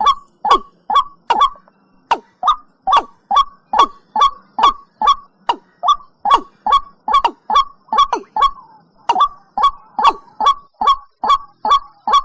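Watercock (cúm núm) calling: a long run of short, sharp notes, a little over two a second, each sliding down in pitch, with a couple of brief pauses along the way.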